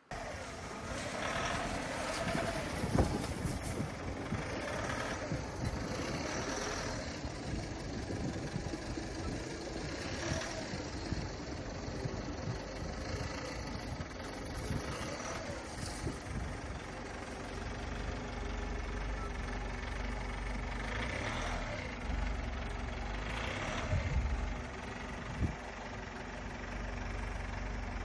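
Tow vehicle's engine running as it moves a camper trailer over a rough dirt forest track, with scattered knocks and a steadier low rumble in the second half.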